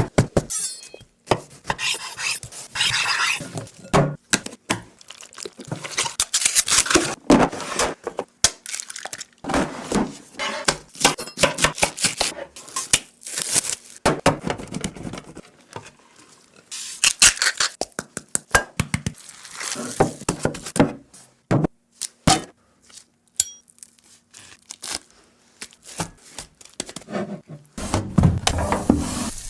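Kitchen food-preparation sounds: irregular knocks and clinks of utensils against dishes, mixed with tearing and crinkling noises.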